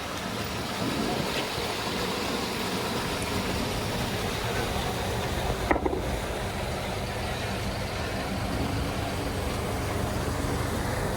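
An engine running steadily, with a single sharp click about halfway through.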